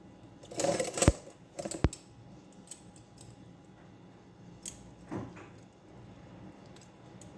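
Kitchen dishes and utensils being handled, light knocks and clicks with two sharp clicks about one and two seconds in and another brief knock later.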